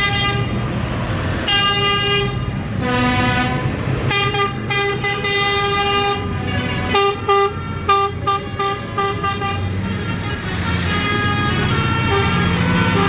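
Several vehicle horns of different pitches tooting repeatedly, some long blasts and a run of short quick toots partway through, over the low rumble of passing lorry and tractor engines.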